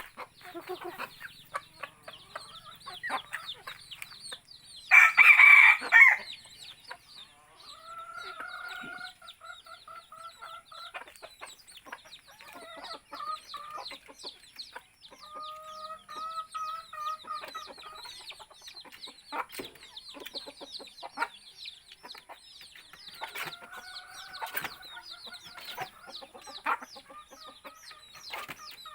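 A flock of chickens clucking and pecking at feed, with constant short clucks and taps. A loud call bursts out about five seconds in, and roosters crow several times in long drawn-out calls.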